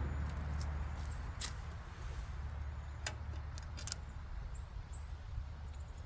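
A steady low hum with a few short, sharp clicks and taps, about a second and a half in and again around three and four seconds in.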